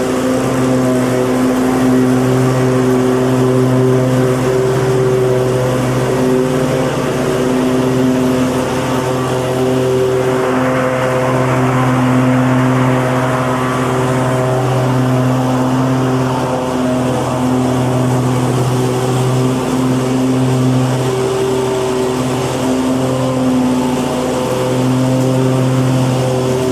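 Lawn mower engine running at a steady speed, an even, unchanging hum, with a brief swell of hiss about ten seconds in.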